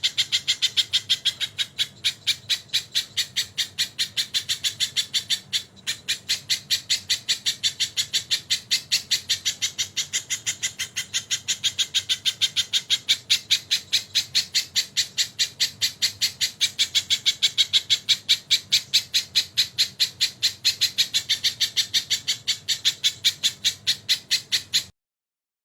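Sogon bird calling a long, fast series of even, sharp notes, about four a second, in the kingfisher-like (tengkek) style it has been taught. There is a short break about five and a half seconds in, and the series cuts off abruptly near the end.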